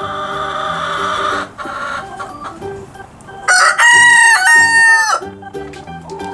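Rooster crowing once about halfway through, a long call in several linked parts, over light background music. A harsher, raspy sound fills the first second and a half.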